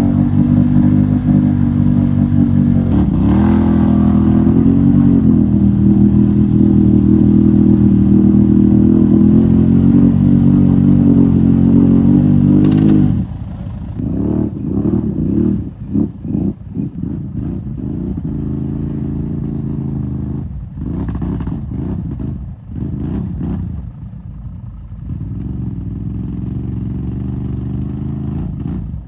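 Can-Am ATV engine held at high revs for about thirteen seconds. It then drops lower and revs in uneven bursts, on and off, as the quad bogs down and gets stuck in a deep mud hole.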